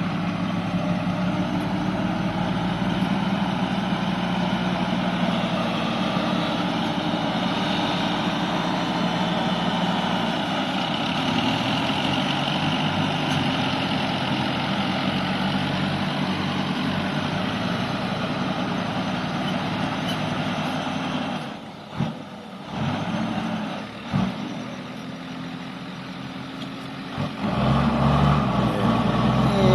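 Dump truck's diesel engine running steadily, then dropping off about two-thirds of the way through, with a brief surge, and growing louder again near the end.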